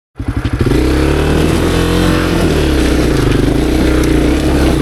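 Honda CRF250F's single-cylinder four-stroke engine running under load on a rocky climb. It revs up and eases back about two seconds in, then holds steady.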